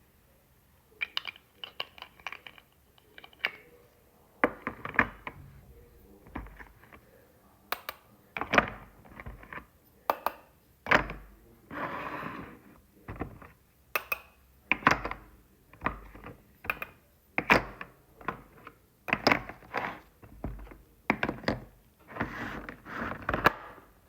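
Toy eggs being handled: a long run of irregular clicks, taps and knocks, some in quick clusters, with a brief rustle in the middle.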